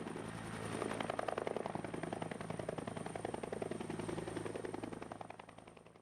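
Helicopter running, its rotor blades chopping rapidly and evenly over a steady low hum and a thin high turbine whine; the sound fades out near the end.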